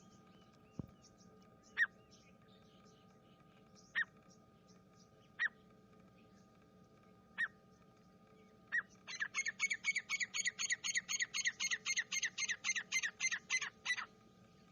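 Grey francolin (teetar) calling: single sharp, rising notes every one to two seconds, then about nine seconds in a fast run of some thirty notes, about six a second, that stops near the end. A faint steady hum lies underneath.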